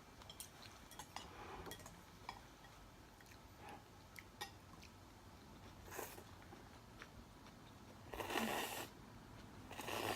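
Eating sounds from a Korean army-stew meal: soft chewing with scattered small clicks of utensils against dishes, and two brief louder rushes of noise near the end.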